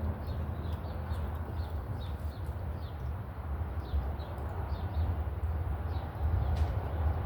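Small birds chirping, with many short high chirps that fall in pitch, over a steady low background rumble.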